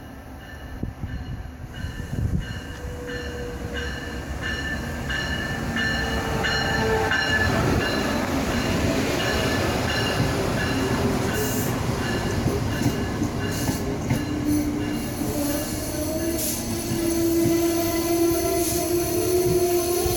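Amtrak passenger train rolling into the station behind an electric locomotive, its wheels rumbling louder as the cars come alongside, with the locomotive's bell ringing steadily in the first half. In the second half a sustained squeal rises from the wheels and brakes as the train slows to a stop.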